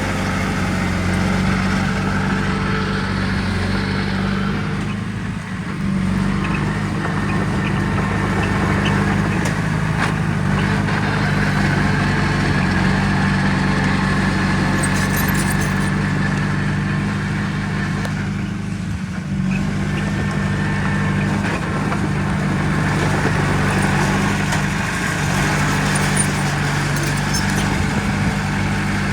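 Diesel engine of heavy earthmoving machinery running steadily, with brief dips about five and nineteen seconds in.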